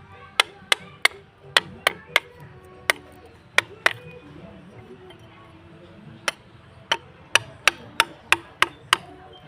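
Wood-carving chisel being struck with a mallet to cut into a wooden owl carving: sharp knocks with a short ringing note, about three a second, in two runs with a pause of about two seconds in the middle.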